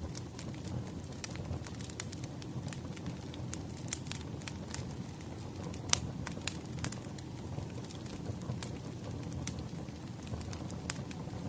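Wood fire crackling: irregular sharp pops and snaps over a low, steady rumble of flames, with the loudest pop about six seconds in.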